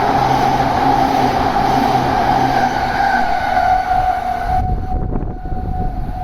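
Electric passenger train passing through a station at high speed without stopping: a loud rushing rail noise with a steady tone running under it. About four and a half seconds in the rushing noise drops away abruptly, leaving the fading tone and a low rumble.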